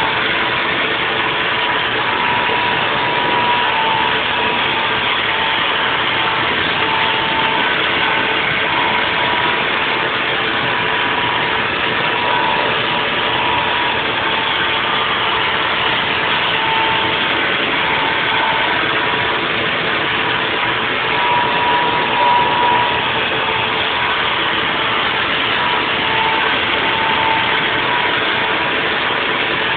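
Haas VF-4 CNC vertical mill running a 3D machining pass: a steady wash of machine noise with a high whine that wavers in and out.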